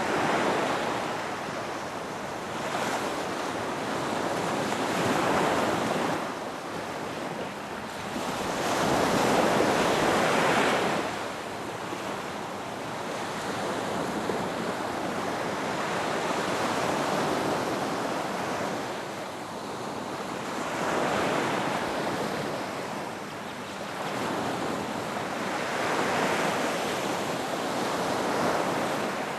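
Ocean waves breaking on a beach, a steady wash of surf that swells and recedes every few seconds, one wave louder about ten seconds in.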